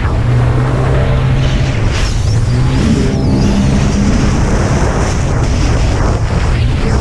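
Racing jet ski engine running hard, its note holding and then dropping away and coming back a few times as the throttle changes, over a steady rush of wind and water spray.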